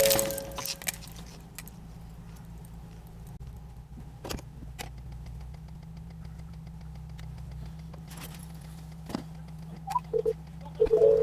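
Low steady vehicle hum with a few scattered sharp clicks, and short beeps about ten seconds in.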